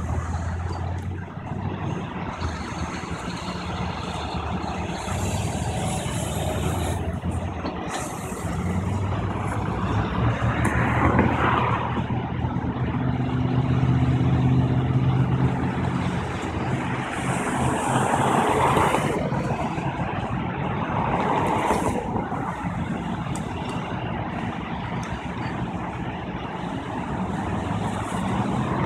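Heavy truck engines running steadily, with traffic swelling past several times.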